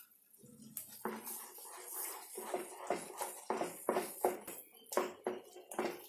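A spoon stirring and scraping thick chana dal halwa around a pan in short, irregular strokes, two or three a second, as added ghee is worked in.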